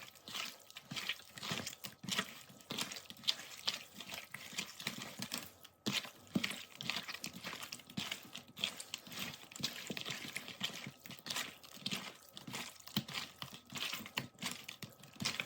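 Seasoned pieces of raw meat being mixed by hand in a bowl: soft, irregular squelching and rustling strokes.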